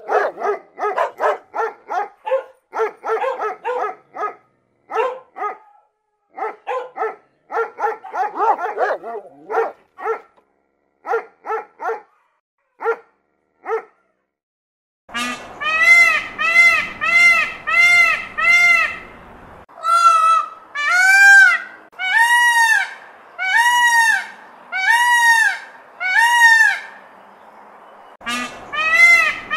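Saint Bernard dogs barking over and over for about the first fourteen seconds. After a short pause, an Indian peafowl (peacock) gives a series of loud honking calls, about one a second, each rising and falling in pitch.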